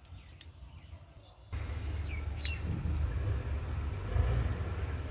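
Background noise: a steady low rumble that starts abruptly about a second and a half in, with two short chirps like a bird's a little later.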